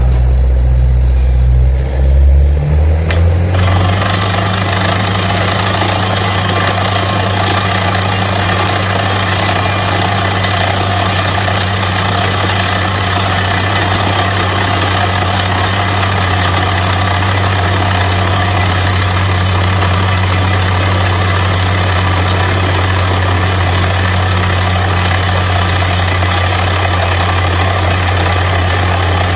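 Truck-mounted borewell drilling rig running: its heavy engine shifts speed about two to three seconds in, then runs steadily with a loud, even noise from the rig at work laid over it.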